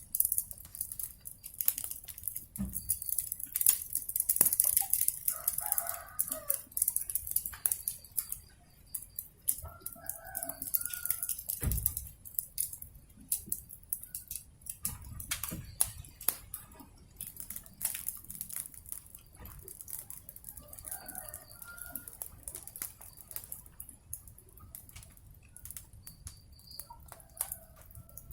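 Wood fire crackling with a steady hiss, loudest in the first quarter, while a chicken calls four times, spaced a few seconds apart.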